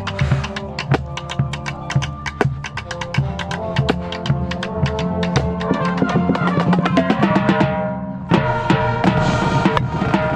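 Marching band drumline playing fast, dense strokes on tenor drums (quads), snare and bass drums, over the band's sustained chords, heard up close from the quad player's head-mounted camera. The sound dips briefly about eight seconds in, then comes back louder.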